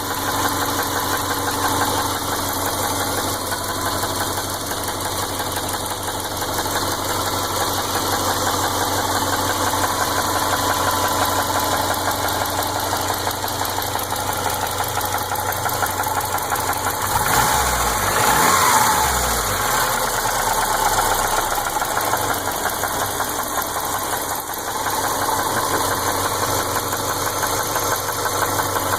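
2003 Subaru Legacy's 2.5-litre flat-four engine running, likely at idle, with a rapid, constant ticking over the engine sound. The tick is one that never goes away and is worse when the engine is cold, while the car runs and drives fine. The engine tone changes briefly a little past halfway.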